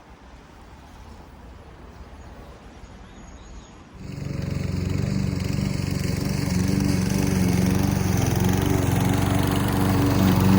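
Troy-Bilt TB110 push lawn mower engine coming in suddenly about four seconds in and then running steadily at full throttle, after a quieter stretch of outdoor background.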